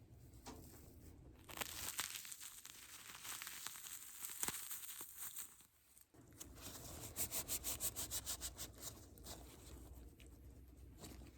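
Close-up crinkling and rubbing handling sounds, with a crinkly stretch followed by a quick run of rubbing strokes, about six a second.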